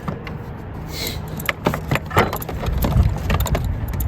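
Clicks, clinks and scrapes of hands and tools working loose the intake air boot in a car's engine bay, over a steady low background hum.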